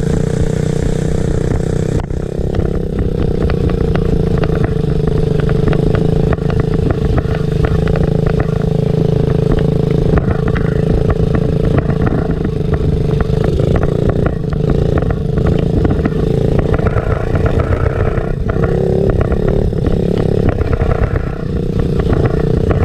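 Small off-road motorcycle engine running at a steady pitch, with scattered clattering throughout.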